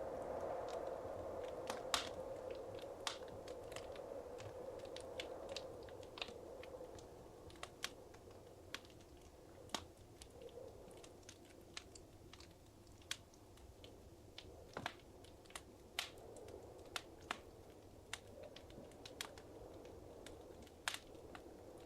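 Wood fire crackling in a fireplace: irregular sharp pops and snaps over a soft low rush of burning, the rush fading after the first few seconds.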